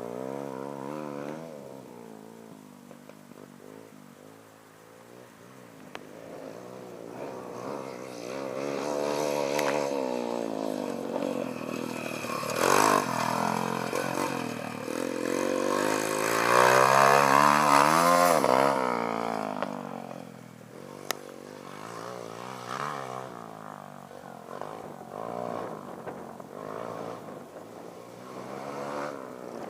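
Pit bike engine revving up and easing off as the bike is ridden around, its pitch repeatedly rising and falling. It grows louder and is loudest about seventeen seconds in, then drops in pitch and fades away.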